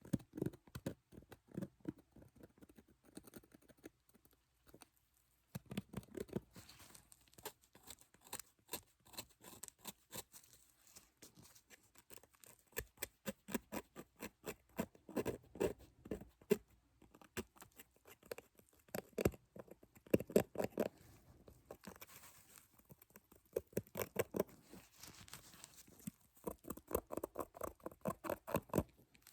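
Rapid light tapping and scratching in clusters of quick clicks, pausing briefly about four seconds in.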